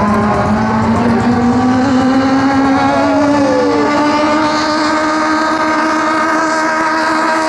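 Racing speedboat engine running hard at high revs, its pitch climbing over the first couple of seconds and then holding steady. A second engine tone falls away about three to four seconds in.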